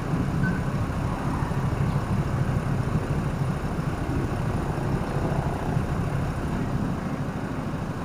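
Steady engine and road noise of a vehicle driving through city traffic, a constant low rumble.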